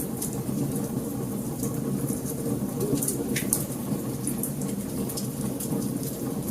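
Burning wood crackling and popping in a fire, with sharp irregular snaps over a steady low rumble of the flames.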